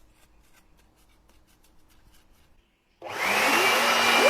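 Faint quick strokes of a brush sweeping dust off a graphics card's cooler, then about three seconds in an electric air blower switches on and blows hard, its motor whine rising as it spins up.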